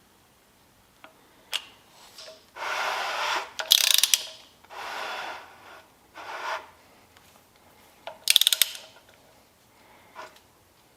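A socket ratchet clicking in two quick runs, about four seconds in and again past eight seconds, between a few second-long scraping noises, as a small-block Chevy's crankshaft is turned by hand to find top dead center.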